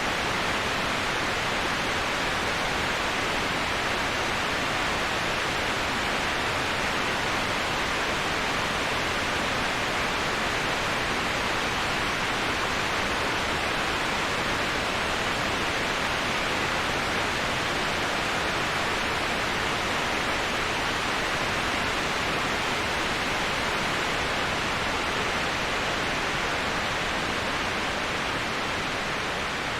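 Steady, even rushing of a waterfall, heard as a constant white-noise-like hiss with no breaks or changes.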